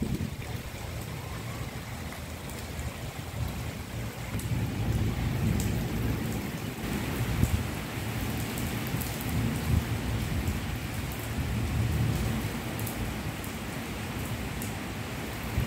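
Heavy rain pouring onto flat concrete rooftops and puddles: a steady hiss with scattered sharp drop ticks and a low, uneven rumble underneath.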